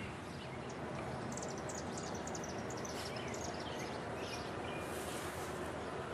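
Birds chirping outdoors over a steady background hiss, with a quick run of high chirps about a second in.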